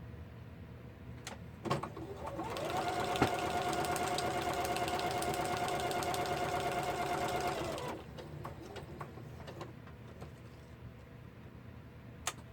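Sewing machine stitching: after a click about two seconds in, it speeds up and runs steadily for about five seconds, then stops. A few small clicks follow near the end.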